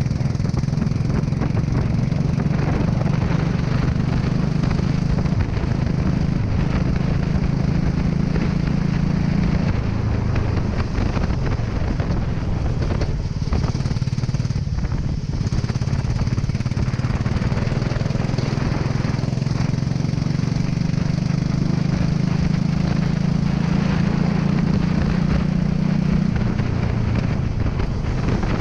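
Single-cylinder go-kart engine running under load, its pitch rising and falling with the throttle and dropping near the end, over a steady rushing hiss.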